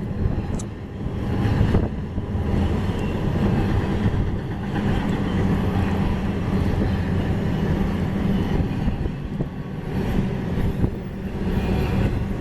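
Union Pacific intermodal freight train rolling past close by: a steady loud rumble of steel wheels on the rails.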